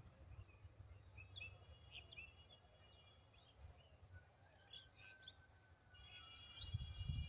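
Faint outdoor ambience: small birds chirping and twittering in short calls, in a cluster a second or two in and again near the end, over a low rumble that grows louder just before the end.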